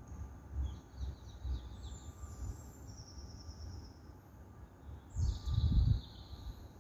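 Small birds singing in short high phrases: a rapid trill about a second in, then single notes and a falling phrase about five seconds in. Under them, low buffeting on the microphone, loudest about five to six seconds in.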